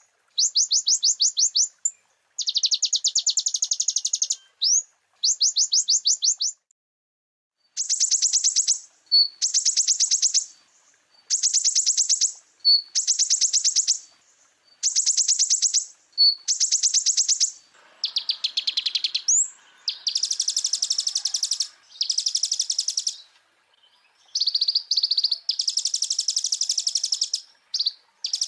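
Kolibri ninja (sunbird) song: bursts of rapid high-pitched trills, each about a second or so long, repeated with short gaps. The later phrases are fuller and buzzier.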